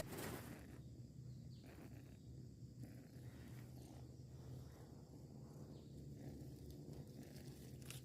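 Near silence after the music cuts off, with only a faint steady low hum.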